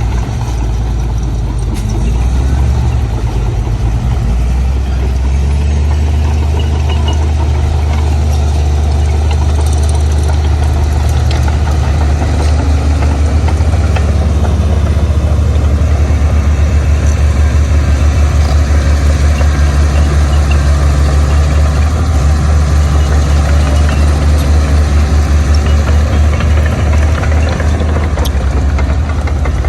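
Heavy diesel engine running steadily with a deep drone, getting slightly louder about two seconds in.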